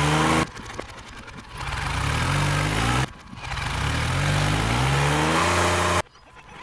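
Tractor diesel engine revving hard under load, its pitch climbing over a few seconds before breaking off abruptly, three times over: the tractor straining to get out of a mud pit.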